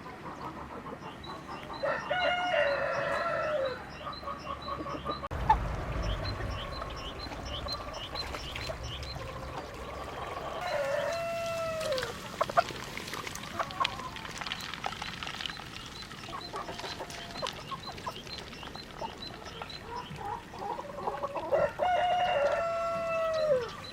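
A rooster crowing three times, about ten seconds apart, each crow a long call that falls away at the end, with softer chirping and clucking from the flock between crows.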